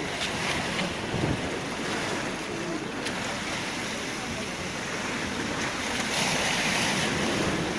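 Black Sea waves washing onto the shore, with wind buffeting the microphone; a wave surges louder about six seconds in.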